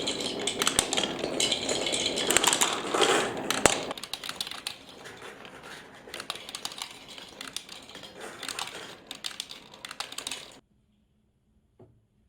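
Many small balls clattering and rattling along a toy marble run, a dense patter of clicks. It is busiest for the first four seconds, thins to lighter rattling, then cuts off suddenly about ten seconds in, leaving one faint click near the end.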